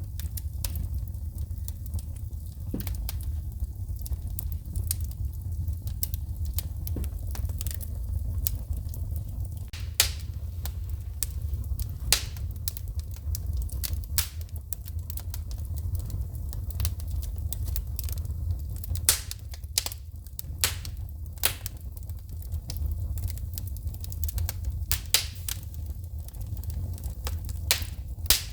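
Wood fire burning in a fireplace: irregular sharp pops and crackles of the burning logs and shooting sparks over a steady low rumble, with a few louder pops scattered through.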